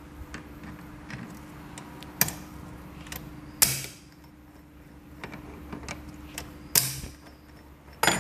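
Metal engine parts and tools clinking and knocking as a small motorcycle engine is assembled by hand: scattered light taps with three louder knocks about two, three and a half, and seven seconds in, the middle one ringing briefly.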